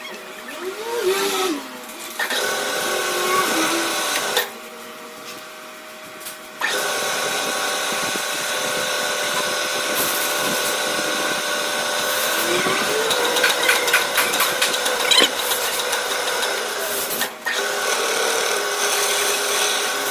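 A machine tool running as it cuts a shaft's bearing seat, a steady whine of several tones. It drops away from a little after 4 s until about 6.5 s, then resumes, with a rising pitch just before 1 s and again around 13 s.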